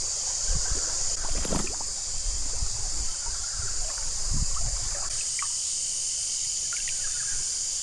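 Creek water trickling and sloshing, with a steady high hum of insects over it.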